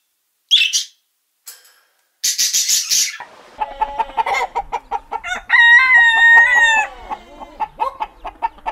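A rooster clucking, then crowing once in a long held call a little past halfway through. Before it, near the start, a short harsh bird screech.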